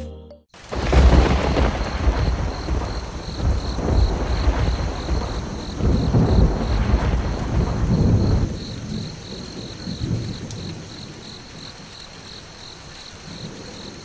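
Thunder rumbling over steady rain. The rumble dies away after about eight seconds and leaves the rain hissing, with a high pulsing tone repeating two or three times a second.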